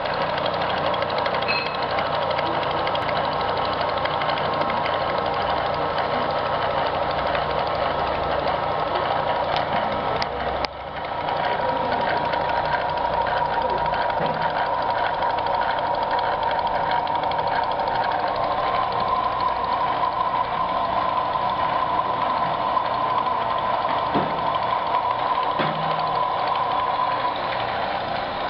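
Milling machine cutting a channel into a fan part: a steady cutting noise with a constant whine that dips briefly about ten seconds in.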